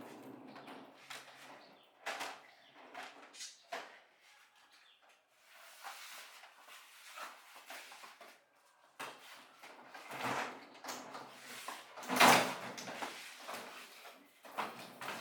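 Irregular knocks, clatter and scraping of objects being handled, with one louder knock about twelve seconds in.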